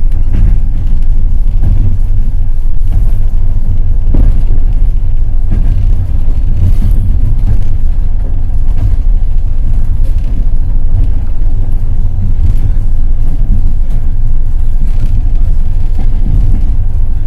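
Passenger train running at speed: a loud, steady low rumble of wheels on rails, with occasional faint knocks from the wheels passing over rail joints.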